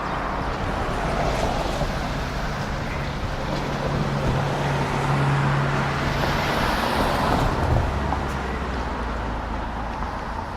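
A motor vehicle going by on the street: engine hum and road noise that swell, then the hum drops lower about eight seconds in as it passes.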